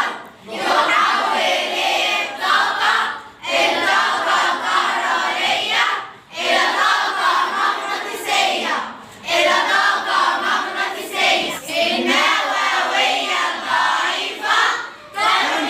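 A group of schoolgirls singing together in unison, loud and a little rough, in short phrases with brief pauses between them.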